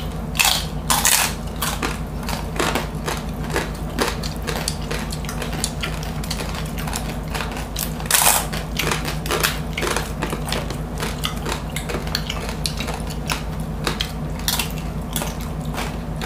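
Crunching and chewing of crispy roast suckling-pig skin (lechon crackling) close to the microphones, an irregular stream of crackly crunches with the loudest bites near the start and about halfway through.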